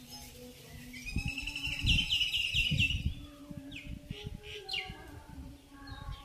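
Birds calling in the garden trees: a quick run of repeated chirps about two seconds in, then a few sharp downward-sweeping calls. Low thumps sound underneath.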